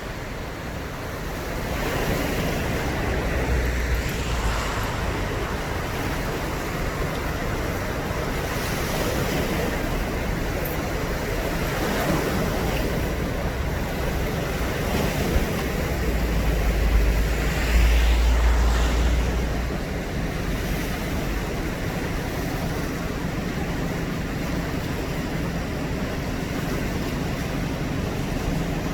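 Floodwater pouring through the open floodgates of Paldang Dam: a steady, heavy rushing noise, close to a roar. Wind buffets the microphone a couple of seconds in and again just past the middle.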